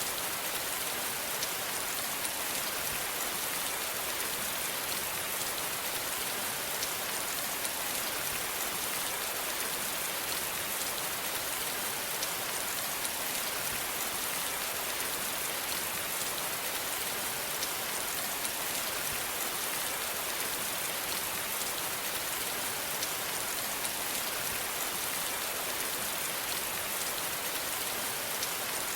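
Steady rainfall: a dense, even hiss of drops hitting a surface, with fine scattered ticks of individual drops.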